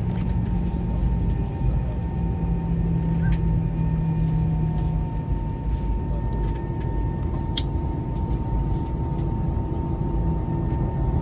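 Airbus A320-214 cabin noise on the ground after landing: a steady low rumble from the CFM56 engines and air systems with a steady high whine, and a few faint clicks.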